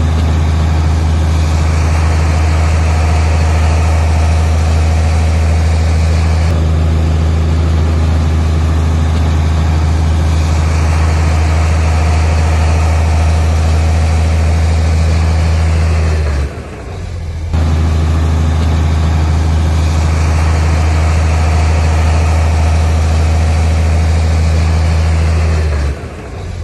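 Heavy diesel engine of earthmoving machinery running at a steady speed with a deep, even hum, broken off briefly about sixteen seconds in and again near the end.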